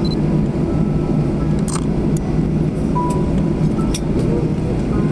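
Steady low rumble of an airliner's cabin noise on the ground just after landing, with a few faint clicks.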